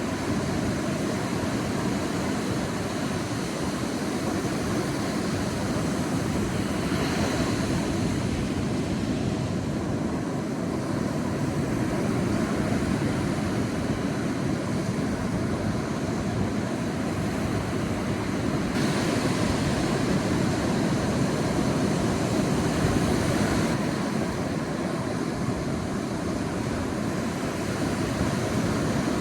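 Sea surf washing onto a beach: a steady rush of noise that slowly swells and eases, with brighter washes of breaking waves about seven seconds in and again from about nineteen to twenty-three seconds.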